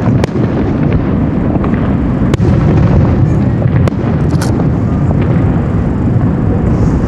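Aerial fireworks bursting in quick succession: a continuous low rumble of booms with sharp cracks every second or so.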